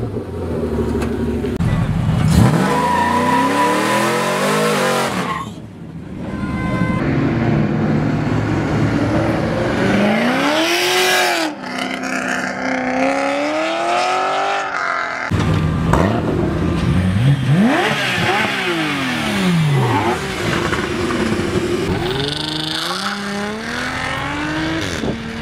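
Performance car engines revving and accelerating, the pitch repeatedly sweeping up and falling back. The sound changes abruptly a few times, as separate recordings follow one another.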